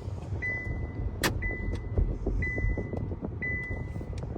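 An electronic beep, one high tone about half a second long, repeating about once a second over the low rumble of a car, with one sharp click about a second in.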